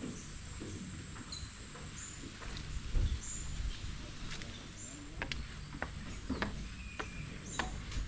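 Tropical rainforest ambience: a steady high-pitched insect buzz with short bird chirps scattered through it, and irregular taps and clicks, typical of footsteps on a walking path.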